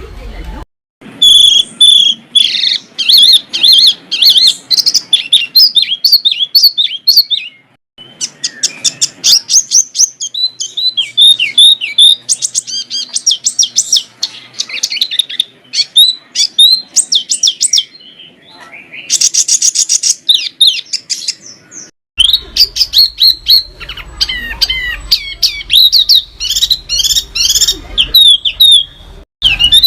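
Small songbird singing a fast, dense run of sharp chirps, whistles and trills, high-pitched and loud, in a song full of varied phrases (isian). The song cuts off abruptly and resumes several times: less than a second in, near 8 s, near 22 s and near the end.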